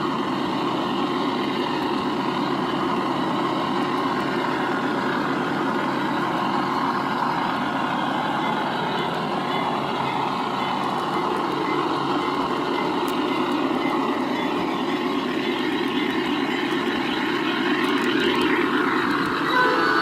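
G scale model Dash-9 locomotive's ESU LokSound decoder playing a GE diesel engine sound through its small speaker, running steadily under way as the model train moves along its track.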